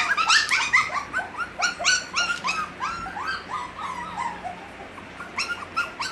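Several six-week-old Havanese puppies crying and whimpering together in short, high, overlapping yelps. The crying thins out briefly near the end, then picks up again.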